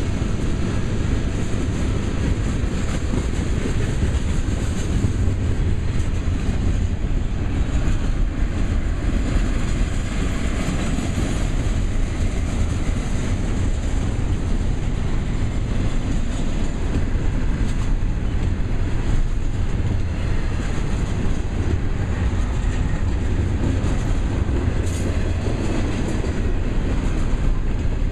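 Freight cars of a long train rolling past close by, first boxcars, then double-stack container well cars: steady rolling noise of steel wheels on rail with occasional clicks.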